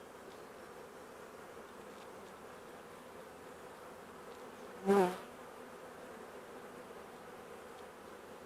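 Swarm of honey bees buzzing in a steady, faint hum as they fly around and back into an opened starter hive. About five seconds in, a short voice-like sound briefly stands out above the hum.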